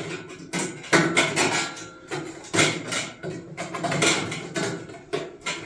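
A series of irregular, sharp metallic knocks and taps from hand tools working the 2 mm wire ties against the metal vent grille frame.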